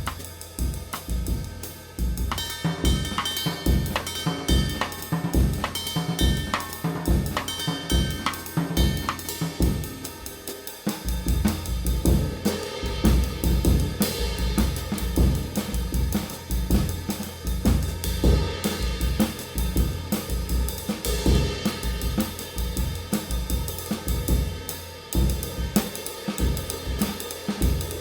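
Drum kit played in a steady groove, with snare, bass drum and hi-hat under a handmade 20-inch extra-light B20 bronze ride cymbal.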